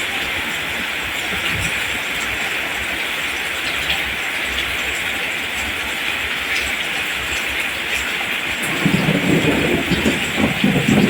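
Steady rain falling, an even hiss, with a low, uneven rumble coming in over the last two seconds.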